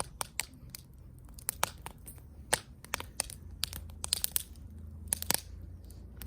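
Wood fire crackling, with irregular sharp pops and snaps several times a second over a low steady hum.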